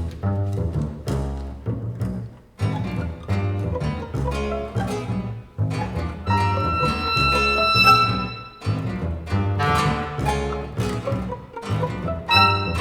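Contemporary chamber music for clarinet, violin, double bass, guitar and piano: a busy run of short, low, plucked and bowed string notes, with a held high note in the middle.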